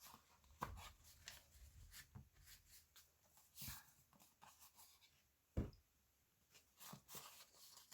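Quiet handling of paper at a craft table: faint rustles and rubbing of paper, with small taps and one sharper knock a little past halfway.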